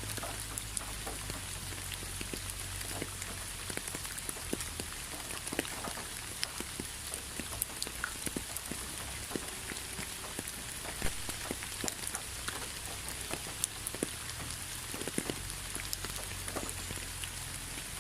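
Steady rain falling, with many separate raindrops ticking and pattering irregularly over a soft hiss.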